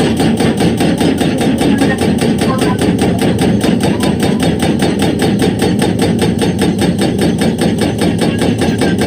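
Excavator-mounted hydraulic rock breaker hammering rock in a rapid, steady stream of blows, several a second, over the excavator's diesel engine running.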